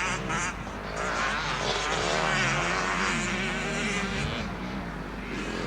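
Motocross motorcycle engines revving and easing off, their pitch rising and falling continuously.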